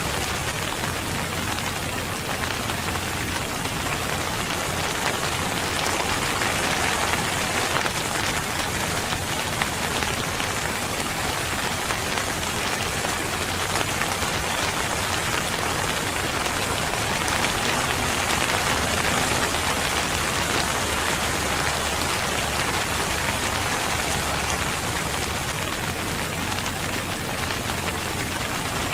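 Steady rain falling on a surface, an even patter of many drops with no letup.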